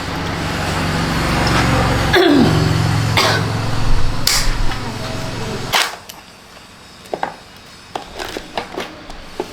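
Sharp clicks and knocks of parts being handled and taken off a scooter, over a low steady hum that cuts off suddenly about six seconds in; lighter ticks follow.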